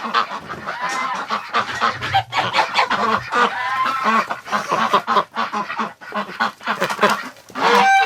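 A flock of domestic ducks and geese calling over one another in short, overlapping calls, with one louder call near the end.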